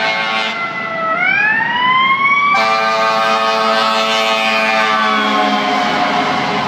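Fire apparatus sirens: one wail dips in pitch and then winds up. About two and a half seconds in, a second, richer steady tone joins and then slowly falls.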